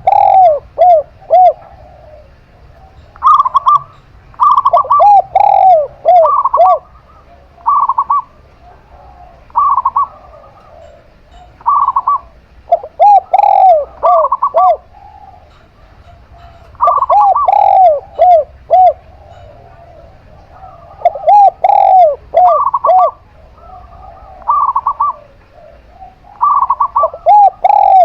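A zebra dove and a spotted dove cooing in turn, repeating bouts every few seconds. Each bout is a run of quick, arching coos, answered by shorter, higher-pitched note groups.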